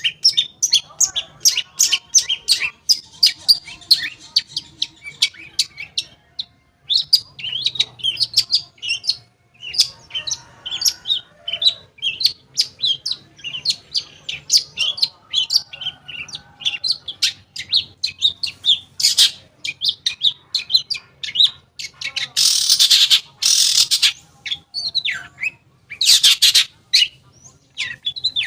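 Long-tailed shrike (cendet) singing a rapid, varied string of high chirps and trills. In the last third it gives several loud, harsh rasping bursts.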